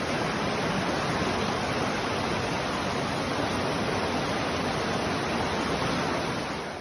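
Steady rush of fast-flowing floodwater, an even noise with no distinct events, fading out near the end.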